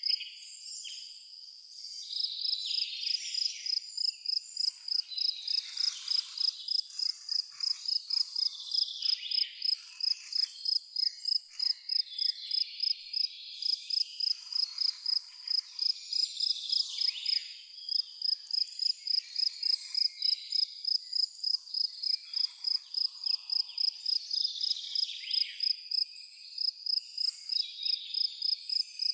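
A cricket chirping steadily in a fast, even rhythm of about three high chirps a second, with a brief break near the start and another about halfway, over other scattered high chirps and calls.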